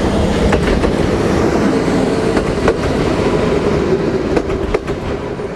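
Regional passenger train running past close by: a steady rumble of wheels on rail with a faint steady whine. Several sharp clicks, irregularly spaced, come as the wheels cross rail joints.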